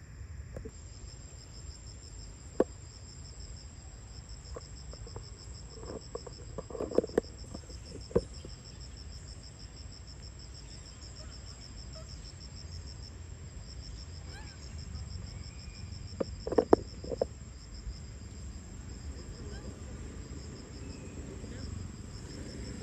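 Insects trilling steadily in a fast, even pulse, with a thin high whine above it, over a low background rumble. A few sharp knocks break in: one early, a cluster about seven to eight seconds in, and another cluster around sixteen to seventeen seconds.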